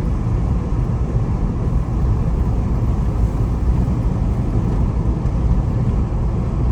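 Steady low road and engine rumble inside a Jeep's cabin while driving.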